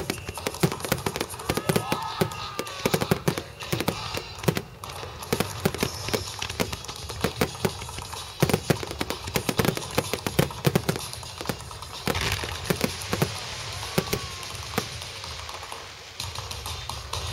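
Aerial fireworks shells bursting in rapid succession, a dense run of sharp bangs and crackles. About twelve seconds in it thickens into a steadier crackling hiss.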